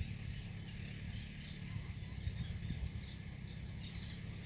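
Small birds chirping continuously over a steady low rumble.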